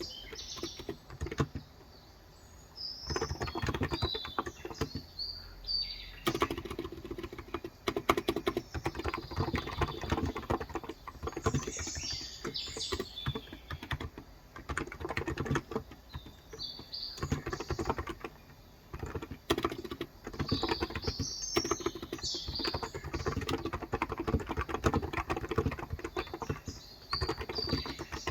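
Typing on a Cox Endeavor electrostatic capacitive keyboard with light 35 g keys, in fast runs of key strokes with a pause of a few seconds near the start. Birds chirp in short bursts at intervals.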